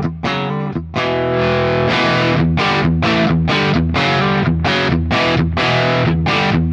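Electric guitar played through a Crazy Tube Circuits Stardust V3 overdrive pedal (a blackface-amp-in-a-box) into a Marshall JTM45 amp, with an overdriven tone. Short, choppy chords for about the first second, then fuller chords struck about twice a second.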